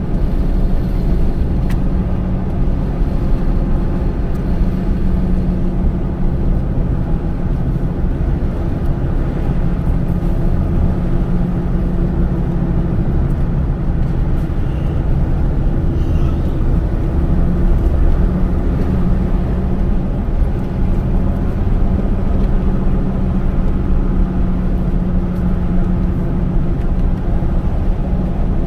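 Car driving at a steady speed, heard from inside the cabin: a steady engine hum under road and tyre noise.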